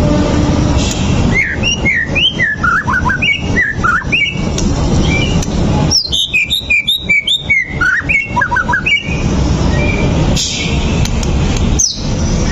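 White-rumped shama singing: two runs of quick, rising and falling whistled notes and chirps, over a steady low background noise.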